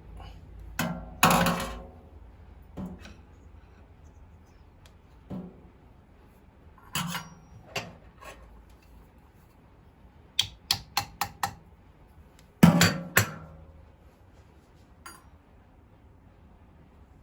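Hard parts and tools knocking and clicking while the faucet is reassembled: scattered sharp knocks, with a run of five quick taps a little after ten seconds in.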